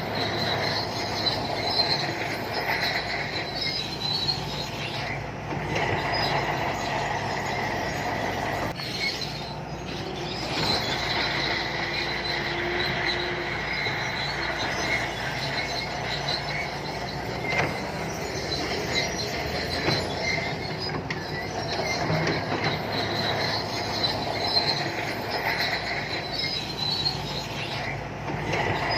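Shantui crawler bulldozer at work: its diesel engine runs steadily while the steel tracks give a continuous high squeal with clanking.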